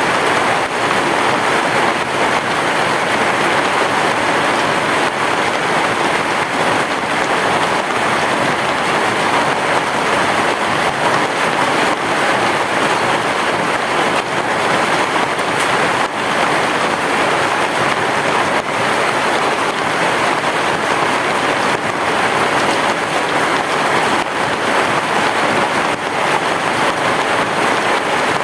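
Heavy rain falling steadily on a roof: a dense, even hiss with a scatter of faint drop ticks and no thunder.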